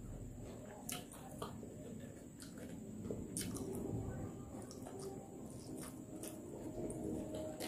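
Close-miked chewing of crispy fried pork belly and rice, with scattered sharp crunches and wet mouth clicks.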